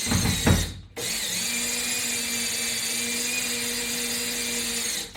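Power drill-driver running as a bolt on a wall-mounted bar is loosened. It gives a short run, then a steady whine of about four seconds that stops near the end.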